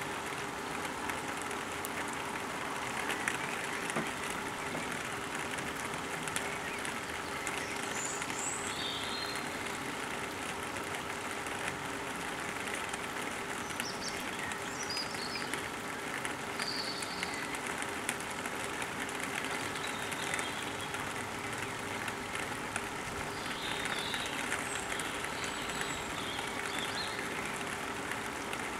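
Steady outdoor background noise with a faint hum, and scattered short, high bird chirps every few seconds.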